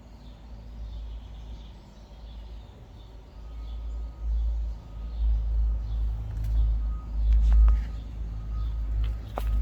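A heavy vehicle engine rumbles, growing louder from about three seconds in. A high beeping tone sounds on and off over it, and there are a few sharp knocks near the end.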